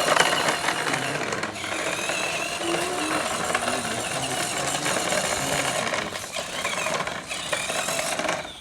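Mini tractor's motor running under load with a steady mechanical rattle, as it pulls a soil-laden trolley.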